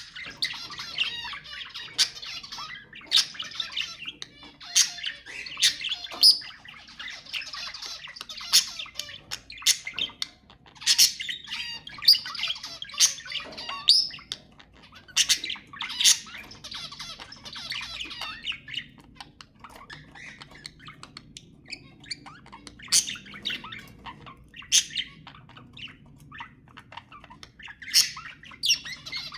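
Budgerigars chattering and warbling, with frequent loud, sharp squawks cutting through. The chatter thins out for a few seconds past the middle, then picks up again.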